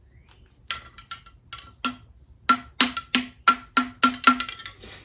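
Repeated sharp metal knocks on a motorcycle front fork leg, each ringing with the same clear tone. Scattered at first, then coming about three a second in the second half.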